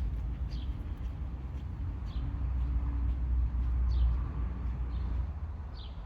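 A bird calling with short downward-sliding high notes, about five of them spaced a second or so apart, over a steady low rumble.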